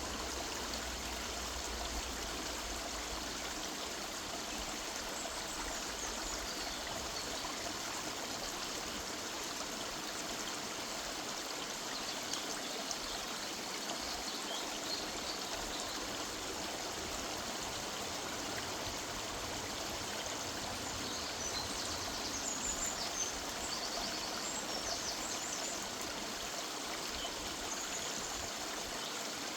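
River water running steadily over stones in a woodland, a continuous rushing and trickling. Small birds chirp high above it in short bursts, about five seconds in, around thirteen seconds, and most busily near the three-quarter mark.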